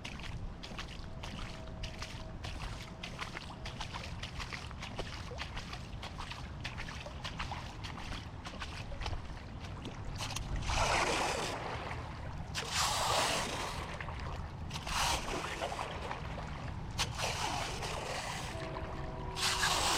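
Steady low rumble of moving water with faint ticks. From about halfway, five loud swells of rushing, splashing water, each a second or two long.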